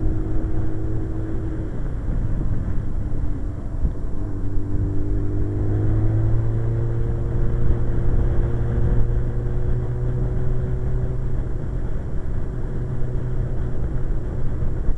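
Suzuki GSX-R 1100's inline-four engine running steadily under way, with wind rush. Its pitch dips about four seconds in, then climbs back and holds.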